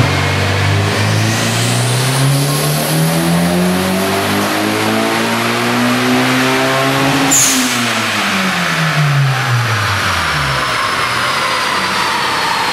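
Turbocharged Honda K20A2 four-cylinder in a Civic Type R accelerating in one long pull, its pitch rising for about seven seconds with a climbing turbo whistle. A short, sharp hiss comes as the throttle closes, then the engine winds down and the turbo whistle falls away.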